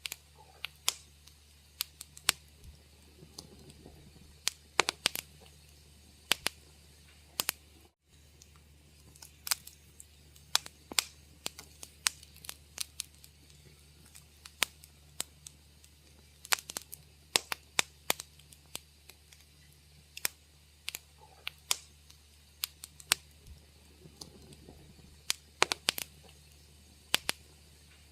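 Wood fire crackling, with irregular sharp pops and snaps, several a second at the busiest moments, over a low steady hum. The sound cuts out for an instant about eight seconds in.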